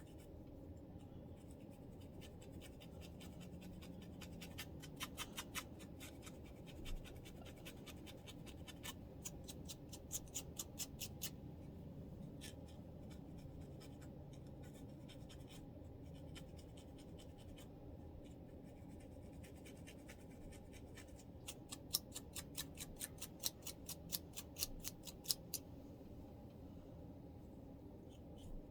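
Close-up scratching on a scalp with dandruff: three bursts of quick, fine scratch strokes with pauses between, over a faint steady background hum.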